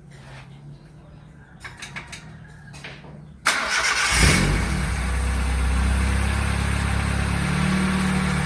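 Car engine started after an oil change, tune-up and throttle-body cleaning: a few clicks, then the starter cranks briefly about three and a half seconds in, the engine catches and settles into a steady idle, and the idle rises a little near the end.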